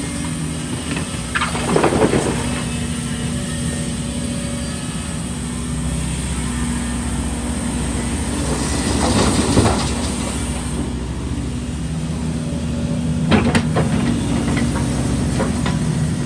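Heavy diesel engine of earthmoving machinery running steadily, with rough bursts of noise about two seconds in, around nine seconds in and again about thirteen seconds in.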